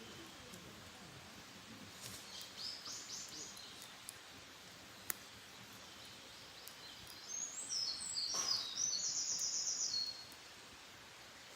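A wild songbird singing in two high phrases: a short one about two seconds in, and a longer run of fast repeated notes near the end. A single sharp click falls about five seconds in.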